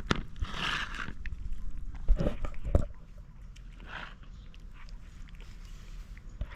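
Stray cats eating, with chewing sounds and a few sharp knocks in the first three seconds.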